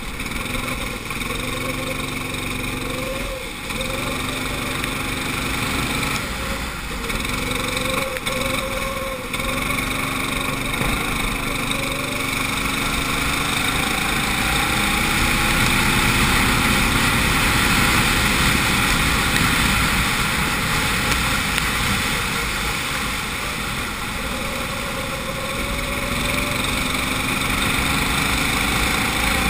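Go-kart engine heard on board, its pitch rising and falling again and again as the kart accelerates out of corners and slows into them.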